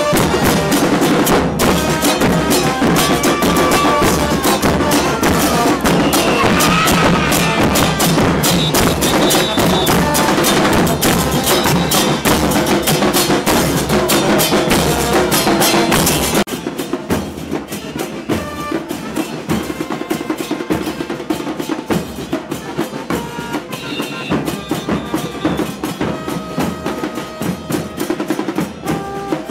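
Murga carnival percussion: bass drums and cymbals beating a fast, dense rhythm, with short held tones above the drumming. About halfway through the whole sound drops suddenly in loudness and carries on quieter.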